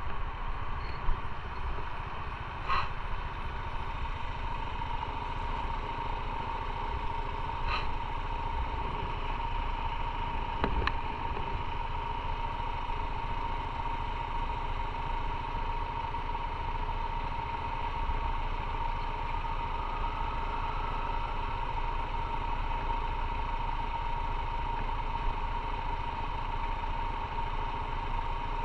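Motorcycle engine running steadily with a constant high whine, with a few short clicks about three, eight and eleven seconds in.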